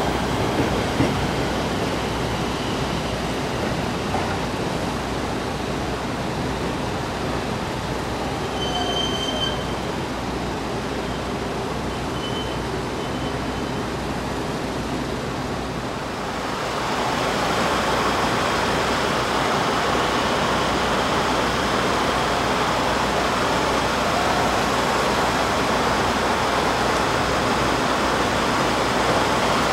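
A 285-series Sunrise electric sleeper train running through the station: a steady rumbling rush, with a brief high wheel squeal about nine seconds in. About halfway through, the sound turns a little louder and hissier.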